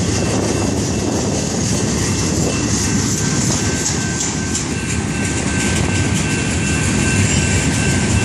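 Freight cars of a manifest train rolling steadily past: a continuous rumble and clatter of steel wheels on the rails. A faint steady high tone joins about three seconds in.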